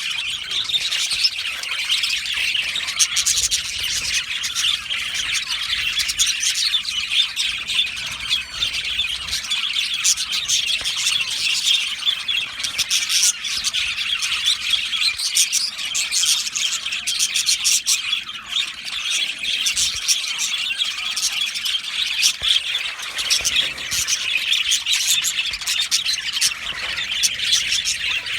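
A colony of budgerigars (budgies) chattering, chirping and squawking all at once, many birds calling over each other in a dense, continuous din.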